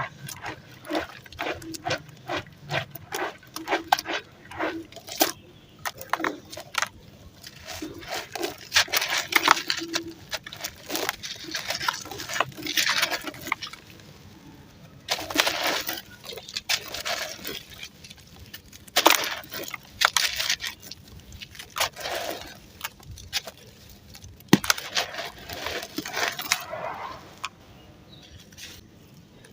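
Crunchy ash being crushed and crumbled, with a quick run of short crunches at first, then longer gritty, crumbling bursts separated by short pauses.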